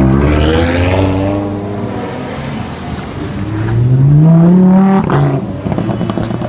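Car engine running close by as it drives past, loud at first, then revving up with a rising pitch and dropping off sharply about five seconds in.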